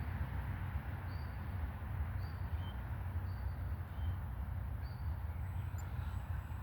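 Low rumble of wind on the microphone, with a bird giving short, high chirps about once a second.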